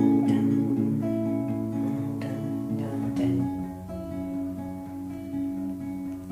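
Acoustic guitar playing music with plucked notes and strumming, fading gently toward the end.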